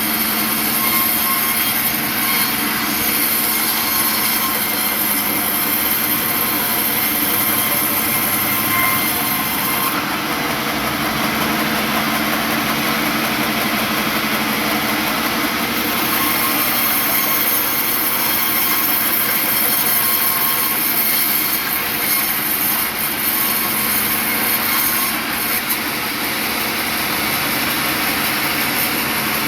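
Sawmill saw running and cutting through a log, a steady dense mechanical noise with a steady hum. A very high hiss in it eases off for about six seconds near the middle, then returns.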